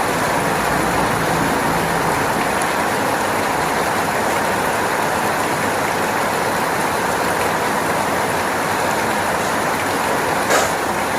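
Steady heavy rain, an even hiss with no let-up, with one sharp tap about ten seconds in.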